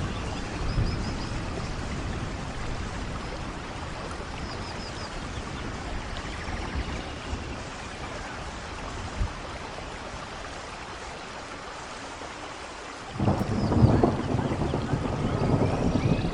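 Steady rain falling, with thunder rumbling in suddenly about thirteen seconds in, the loudest sound. A few faint high chirps sound over the rain.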